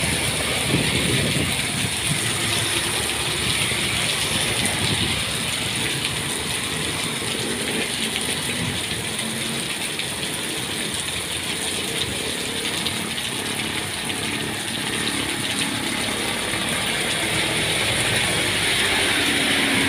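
Steady heavy rain, a dense pattering of drops with no letup, over a low rumble in the background.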